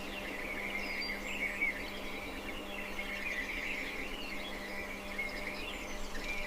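Outdoor nature ambience: a continuous chorus of high, twittering chirps from small birds or insects, over a faint steady low hum.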